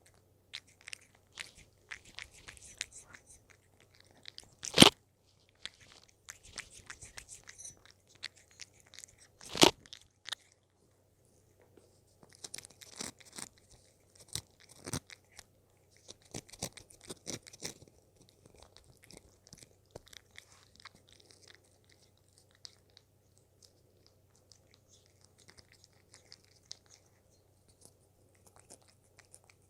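A cat chewing treats close to the microphone, in bursts of small clicking bites, with two loud knocks about five and ten seconds in. The eating thins out and grows quieter in the second half.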